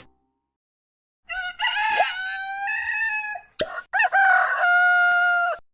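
Rooster crowing twice. The first crow steps up and down in pitch, and the second is a long, steady held note.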